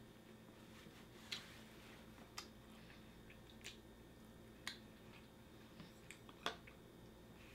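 Sushi being chewed, heard as a handful of sharp, wet mouth clicks spaced a second or so apart, the loudest near the end, over a faint steady hum.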